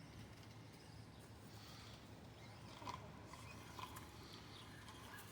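Near silence: faint outdoor background with a low steady hum and a few faint, short ticks.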